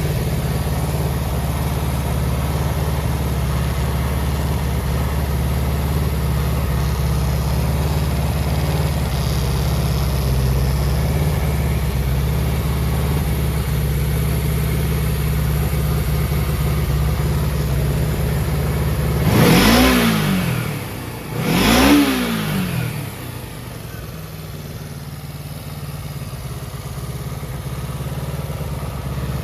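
Kawasaki Z250FT's air-cooled 248 cc parallel-twin, fitted with an aftermarket muffler, idling steadily. About two-thirds of the way through the throttle is blipped twice, the revs rising and falling quickly each time, and the engine then settles back to a quieter idle.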